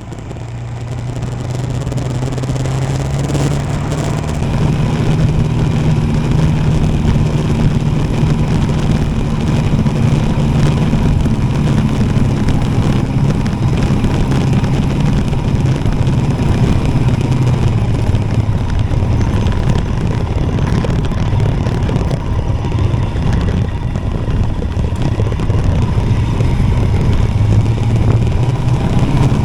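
Royal Enfield Himalayan single-cylinder motorcycle engine running under way, with road and wind noise. The engine note rises over the first few seconds as the bike picks up speed, then holds steady.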